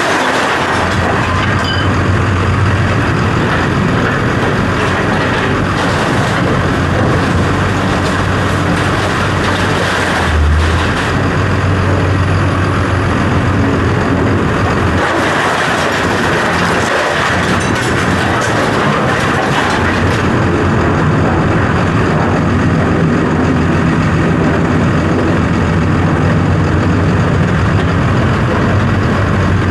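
A large engine running steadily, with a short low knock about ten seconds in.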